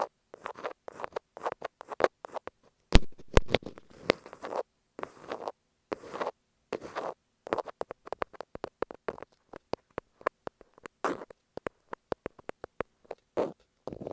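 Thumbtack scratching and tapping on masking tape stuck over an earphone microphone: close, crackly scrapes and sharp clicks in an irregular, unhurried rhythm.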